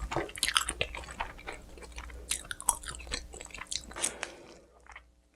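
Close-miked chewing of pizza, with crunching bites of crust: quick, irregular crackles and moist chewing that die away in the last second.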